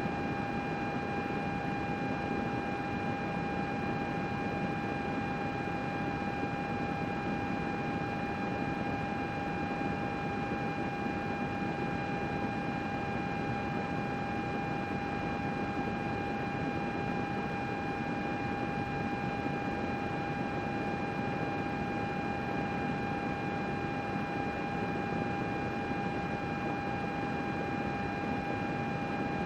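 Computer cooling fans running steadily: an even rush of air with a constant whine and its overtones on top, unchanging throughout.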